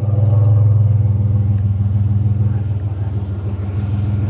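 Pickup truck driving, its engine and road noise making a steady low drone.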